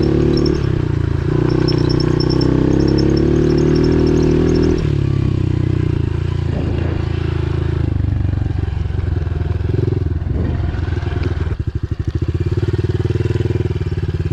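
Pit bike engine running under throttle, its pitch shifting up and down as the revs change. About twelve seconds in it drops to a low, evenly pulsing idle.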